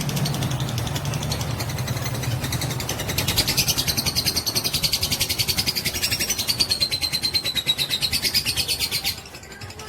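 Fighter lovebird chattering in a long, rapid trill of high notes (the 'ngekek' song), growing louder about three seconds in and cutting off suddenly near the end.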